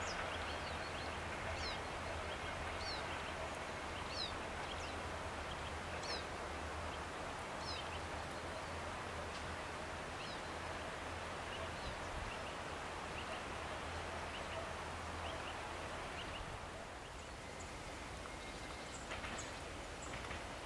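Low rumble of a passenger train going away into the distance, fading out over the first half, while a bird gives a short falling chirp about every second and a half.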